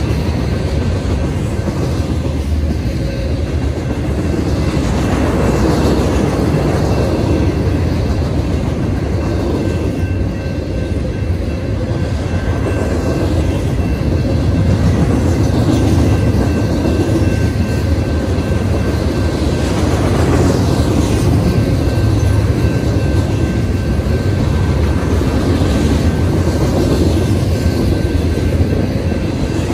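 Double-stack intermodal freight train of BNSF well cars rolling past: a steady rumble and clatter of steel wheels on the rails.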